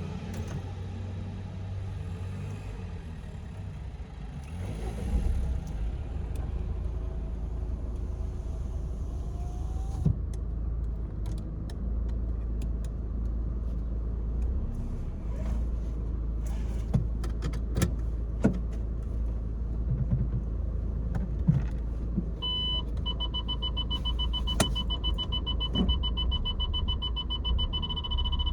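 Peugeot 301 with its engine running, a steady low rumble, with scattered clicks and knocks from about a third of the way in. About three-quarters of the way through a steady high beep tone starts and keeps sounding.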